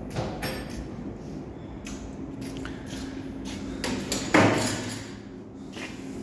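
Metal tools clinking and knocking on a car's front brake caliper during a brake pad change, with one loud, ringing metal strike about four seconds in. A steady low hum runs underneath.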